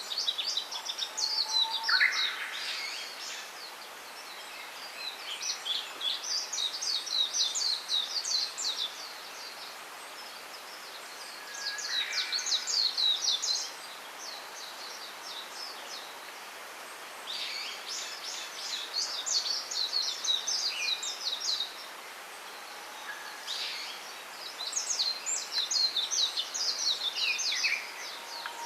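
A small songbird singing phrases of rapid, high twittering notes, five phrases each lasting a few seconds with pauses between, mixed with a few lower whistled notes, over a steady background hiss.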